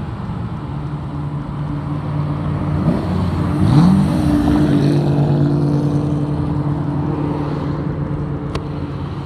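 A yellow Chevrolet Camaro's engine revs up, rising in pitch, as the car accelerates past close by about four seconds in. The engine then runs on steadily and slowly fades as the car moves off, with other traffic passing. A single short click comes near the end.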